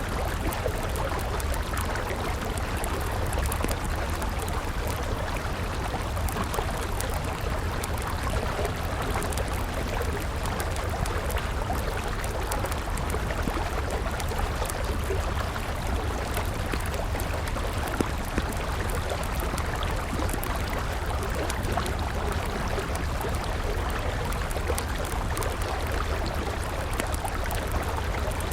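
River water flowing steadily, with a wood campfire crackling over it in frequent small clicks and a few louder pops.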